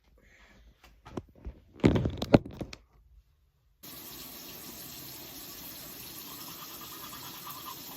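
A few handling knocks and clatters, then, after a brief cut, a sink tap running in a steady stream.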